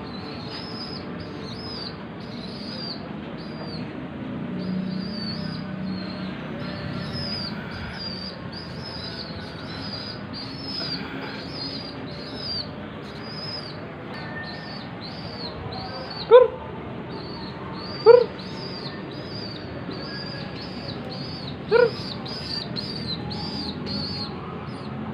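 Young pigeons (squabs) chirping in a steady run of short, high chirps, about two a second. Three short, much louder calls come about two-thirds of the way through.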